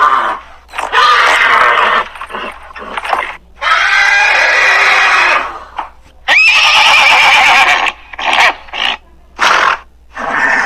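Horse whinnying repeatedly: several long, loud neighs of about a second and a half each, then a run of shorter calls near the end.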